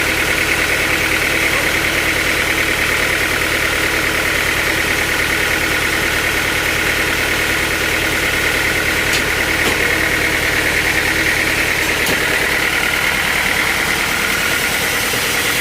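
Sawmill machinery running steadily: the engine turns over at an even speed, with a steady high whine above it.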